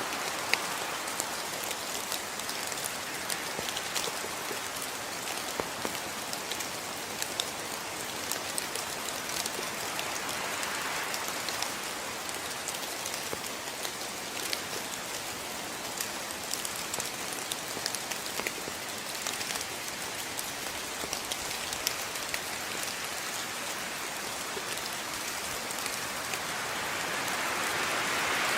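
Steady rain falling, an even hiss with many individual drops ticking through it. It swells slightly near the end.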